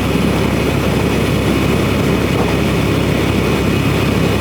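Semi truck's diesel engine and road noise as a steady low drone heard inside the cab while driving.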